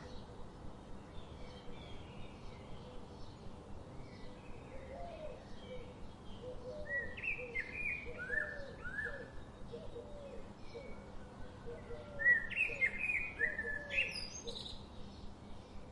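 Several birds chirping and singing, with two louder bursts of falling song notes about seven and twelve seconds in, and a series of low repeated calls beneath.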